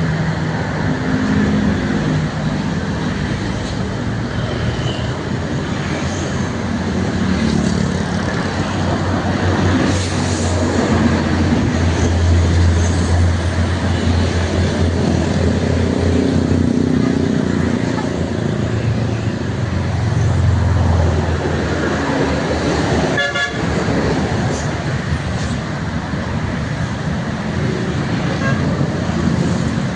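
Heavy road traffic with trucks passing, their diesel engines droning and swelling twice as they go by, and vehicle horns sounding.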